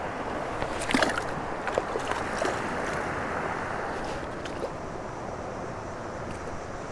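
Steady rush of flowing creek water, with a few brief sharp sounds about one to two and a half seconds in.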